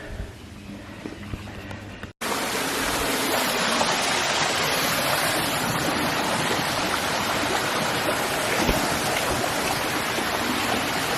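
Steady, loud rushing of a waterfall, cutting in abruptly about two seconds in. A few faint knocks come before it.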